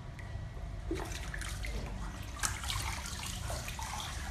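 Pool water splashing and lapping irregularly as a cat paddles, starting about a second in, over a steady low hum.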